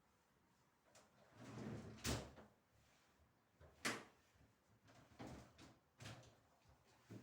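Household handling sounds during cleaning: a brief rustle, then a string of short knocks and clicks, like cupboard doors and drawers being opened and shut, the loudest about two seconds in.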